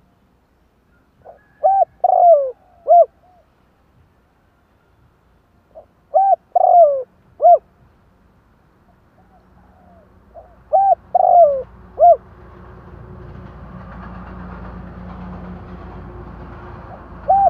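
Spotted dove cooing: three phrases of a few arching coos each, about four and a half seconds apart, with another phrase starting at the very end. This is a male's territorial advertising call, of the kind played as a decoy to draw wild males. A steady background rumble and hiss builds up from about halfway.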